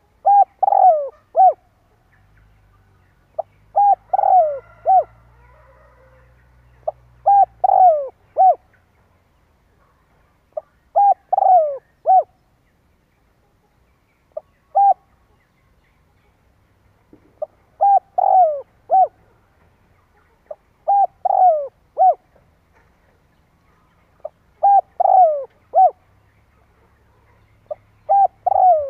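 Spotted dove (chim cu gáy) cooing, a decoy-style male song used to provoke wild doves into answering. It repeats short phrases of two to four falling coos every three to four seconds, with one phrase cut to a single note about halfway through.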